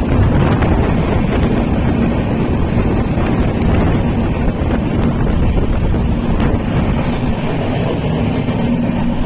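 Passenger train running at speed, heard from on board: a steady rumble of wheels on the track with wind buffeting the microphone and a faint steady hum.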